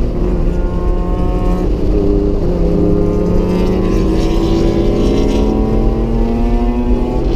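Acura NSX's mid-mounted V6 engine heard from inside the cabin under hard acceleration on track. The engine note breaks briefly about two seconds in, then climbs steadily in pitch as the revs rise.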